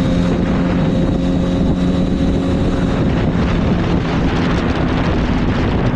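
Yamaha R1 sportbike's inline-four engine running at a steady cruising speed. Its note holds for the first few seconds and then sinks into heavy wind rush over the rider's microphone.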